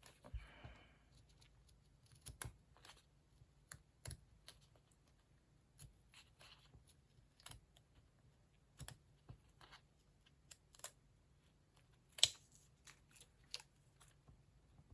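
Scissors cutting through linen fabric in faint, irregular snips, with a sharper click about twelve seconds in.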